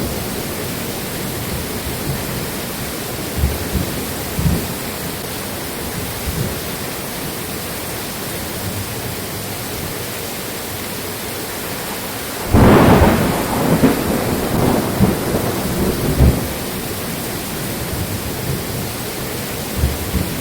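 Steady rain falling with a continuous hiss, and low rolls of thunder; a loud peal of thunder breaks in about two-thirds of the way through and rumbles away over a few seconds.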